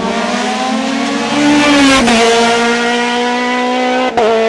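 Hill-climb race car engine at full throttle, rising in pitch and then changing up a gear about two seconds in, with a second quick upshift near the end.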